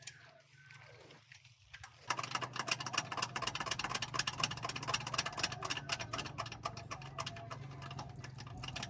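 An engine running with a steady low hum, joined about two seconds in by a dense, rapid clatter.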